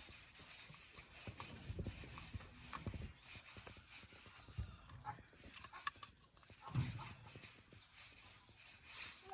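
Faint, irregular knocks and clicks, with a few dull thumps among them, like parts and tools being handled.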